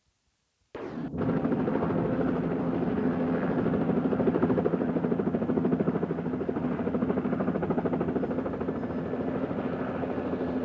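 Police helicopter running, its rotor beating in a rapid, steady chop over a steady engine tone; the sound starts abruptly just under a second in.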